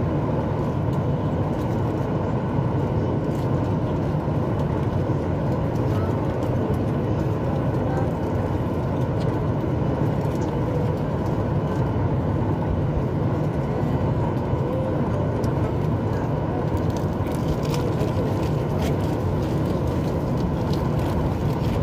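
Steady cabin noise inside a Boeing 737 MAX 8: a constant low rumble and rush of engines and air, with a few faint clicks and rattles near the end.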